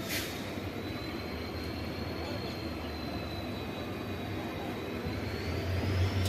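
Steady running noise of a passenger train moving out of a station, heard from on board, with a faint high whine that rises slightly near the end and a brief sharp noise at the very start.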